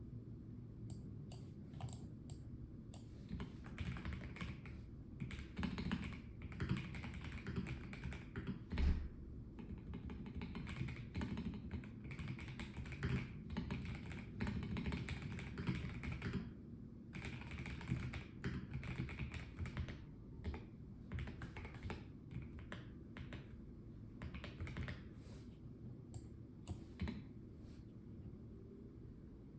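Typing on a Melgeek Mojo84 mechanical keyboard with a plastic case: rapid runs of key clicks in bursts, broken by short pauses, over a faint steady low hum.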